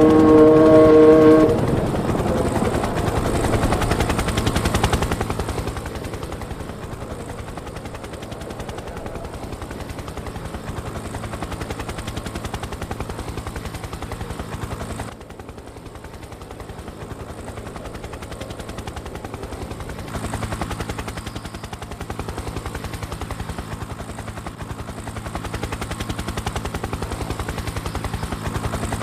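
Formula One car engines from the 1998 season running at high revs, several cars together. The sound changes abruptly about halfway through, where the level drops, and grows louder again a few seconds later.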